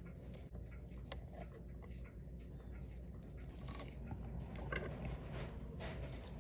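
Small tools clicking and scraping on the parts of a Seiko 5 7S36 automatic watch movement as it is taken apart, with one sharper click a little before five seconds in.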